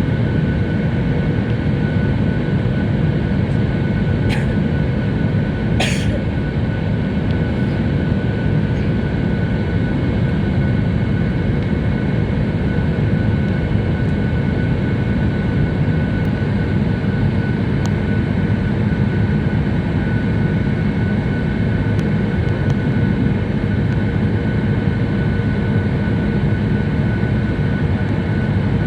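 Steady engine and air rush inside a jet airliner's cabin, with a faint high whine over it and two brief clicks about four and six seconds in.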